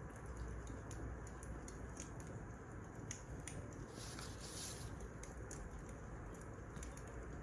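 Wood fire crackling: a steady low rumble with scattered sharp pops and snaps, and a short hiss about four seconds in.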